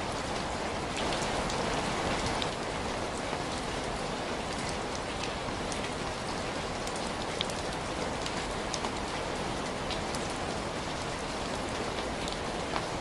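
Steady rain falling, with scattered sharp ticks of individual drops or crackles throughout and a slight swell in loudness about a second in.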